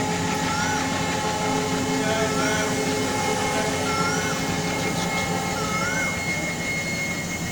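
Passenger train with Utkrist-rake coaches moving along the platform, a steady rumble and rail noise with a few held tones. A short rising-and-falling chirp repeats about every second and a half over it.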